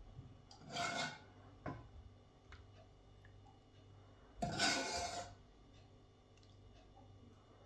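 Two short rasping, rubbing noises, one about a second in and a louder one about four and a half seconds in, with a light click between them.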